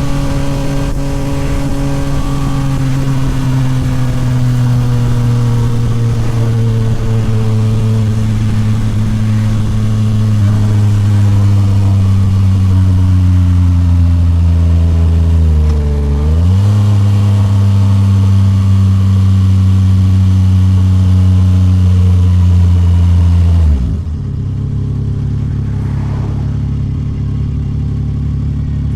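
Yamaha MT-09 SP's three-cylinder engine through a Toce full exhaust, running under way with its note slowly falling. About sixteen seconds in the note dips sharply and jumps back up in a quick gear change; near the end it drops suddenly to a low, steady idle.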